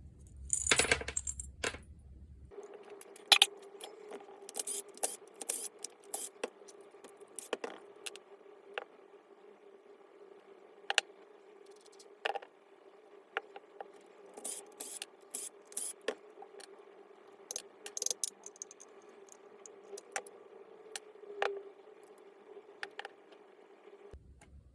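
Light metallic clinks and taps at irregular intervals, as small metal parts of a disc grinder are handled during disassembly, over a faint steady hum.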